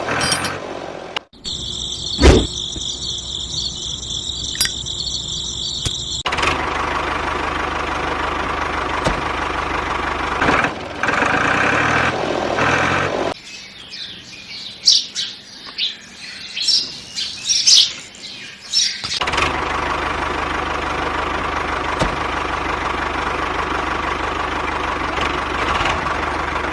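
Small electric motors of a DIY miniature tractor and threshing machine running steadily in several cut-together stretches, one with a high whine. For several seconds in the middle the motor noise drops away and short high chirps are heard.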